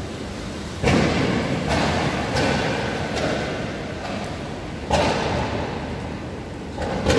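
Steady hiss of heavy rain, broken by about five sudden loud thuds, each dying away over a second or two.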